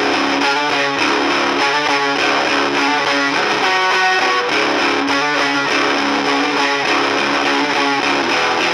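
Electric guitar riff played through a Grundig TK-14 tape recorder converted into a valve guitar amp head, its 12AX7 preamp triode driven into fuzz distortion. The playing is steady and loud, with the riff repeating over held low notes.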